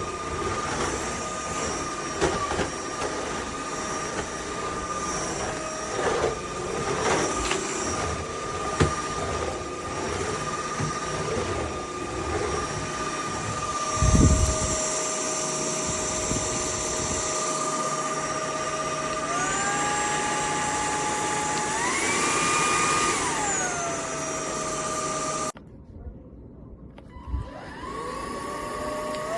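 UNINELL UV3 cordless stick vacuum running with a steady motor whine, with a few knocks in the first half. Later its pitch steps up several times before falling away; it cuts off abruptly, then winds back up rising in pitch near the end.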